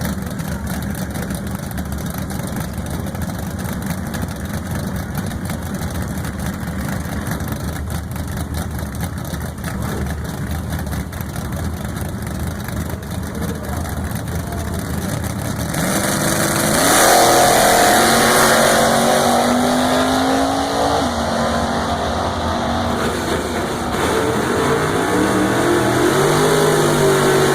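Drag car engines rumbling steadily, then about two-thirds of the way in a louder engine revs up, its pitch climbing in steps, and near the end another engine revs up again.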